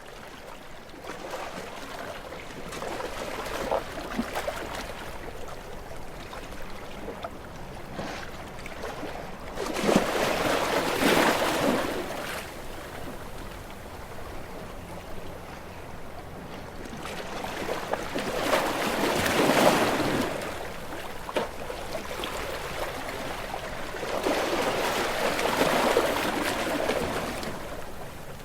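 Sea waves washing against shoreline rocks, a hiss of surf that swells and falls back, with three larger surges about seven seconds apart.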